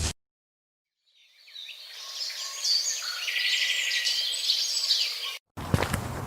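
Birds chirping and trilling as a stock sound effect, fading in after a second of silence and cutting off suddenly near the end.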